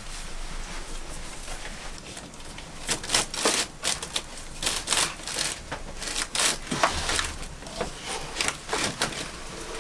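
Irregular clicking and knocking, many sharp strikes in quick succession from about three seconds in.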